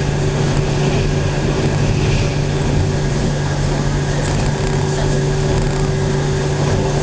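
Local electric train heard from inside the passenger cabin while running: a steady rumble of wheels on rails with a constant low hum and a fainter steady higher tone, even throughout.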